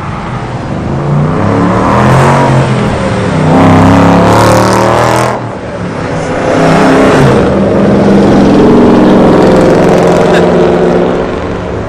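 A car engine revving hard as the car accelerates away with a loud exhaust. The engine note rises, drops briefly just after halfway, then climbs and holds loud again.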